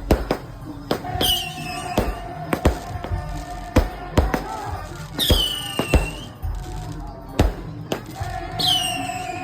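Madurese tong-tong percussion music: dense, sharp drum and slit-drum strikes over a held melodic note, with three high falling whistle-like glides about a second in, halfway through and near the end.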